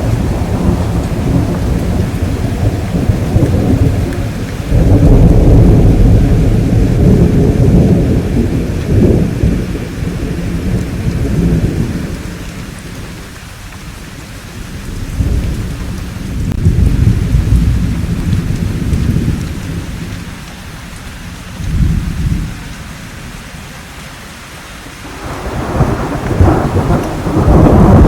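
Thunderstorm: rolling thunder rumbling over steady rain. A long peal fills the first half, shorter rumbles come and go through the middle with lulls between, and a sharper, louder peal builds near the end.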